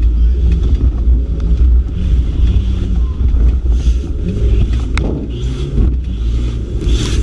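Competition car's engine heard from inside the cabin during off-road driving, its revs rising and falling, with rattles and one sharp knock about five seconds in.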